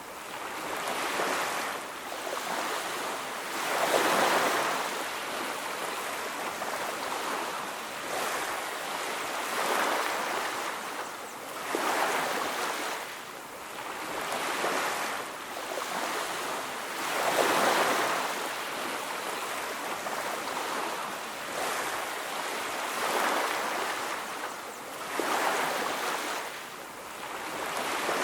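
Ocean waves breaking on a beach: a steady wash of surf that swells with each wave every few seconds.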